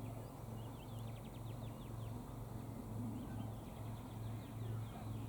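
Two quick runs of rapid, high-pitched bird notes, about a second in and again about three seconds in, over a faint low hum that pulses two or three times a second.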